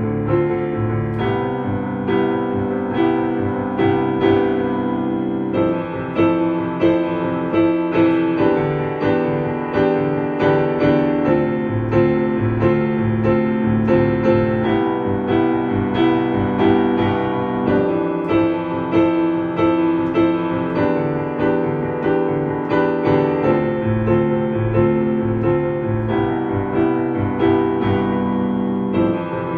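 A piano or keyboard piece in A minor playing steadily, with a regular pulse of repeated notes over held low chords.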